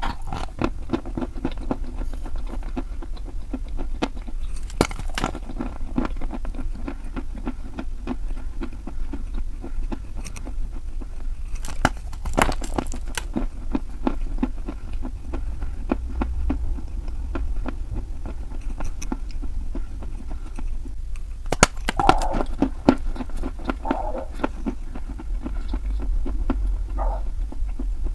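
Someone chewing and crunching crunchy chalk: a dense run of small crackles and clicks, with louder bites about halfway through and again a few seconds before the end, over a steady low hum.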